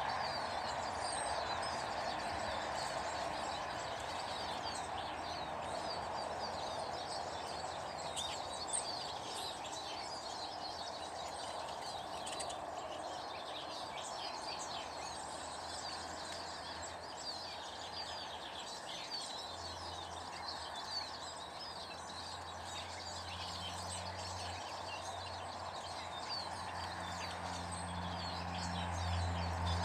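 Many small birds chirping and twittering at a feeding garden, over a steady background hiss. A low hum comes in during the second half and grows louder near the end.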